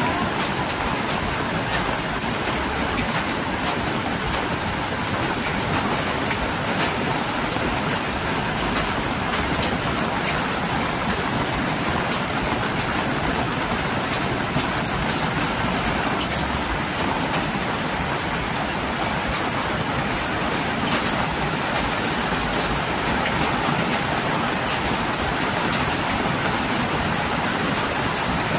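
Heavy rain falling steadily on a paved street and roofs, a constant hiss with scattered close drip and splash ticks from water running off a nearby roof edge.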